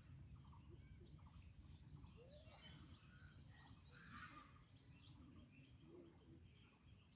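Faint outdoor ambience of scattered short bird chirps and calls over a low steady rumble.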